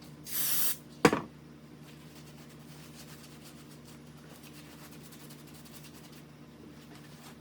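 A short hiss of aerosol carb cleaner sprayed onto a carburetor gasket, then a single sharp knock, the loudest sound, followed by faint rubbing of a rag over the gasket.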